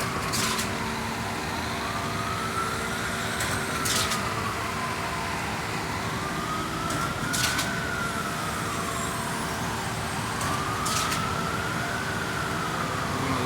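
An emergency-vehicle siren wailing, its pitch slowly rising and falling about every four seconds, over a steady mechanical hum. A few short sharp knocks come at irregular times.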